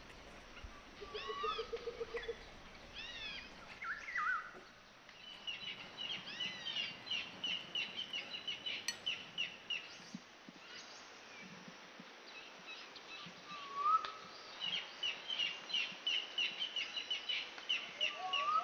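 Birds singing: scattered arching chirps and a short low trill, then two long runs of quick, evenly repeated high notes.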